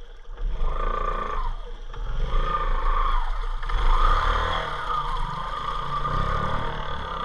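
Four-wheel-drive ATV engine revving hard under acceleration in first gear, two-wheel drive, as the rider throttles up for a wheelie. Its pitch rises and falls with the throttle, with a short dip about two seconds in.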